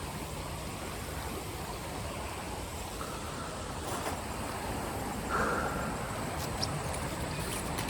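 Creek water rushing steadily outdoors, with a few faint knocks and a brief high tone about five seconds in.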